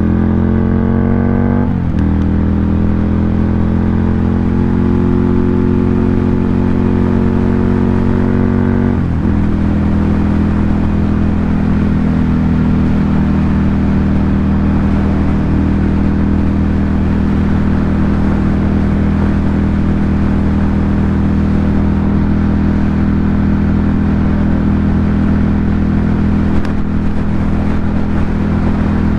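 Ducati Monster 797's air-cooled L-twin through an SC Project aftermarket exhaust, pulling with rising revs. About two seconds in the pitch drops at an upshift, the revs climb again, and from about nine seconds in the engine holds a steady note.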